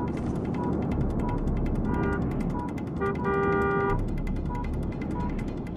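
A car's electronic warning chime beeping steadily, about three short beeps every two seconds, over a fast ticking and a steady background rush at a multi-car crash scene. A car horn sounds briefly about two seconds in and again for nearly a second a little after three seconds.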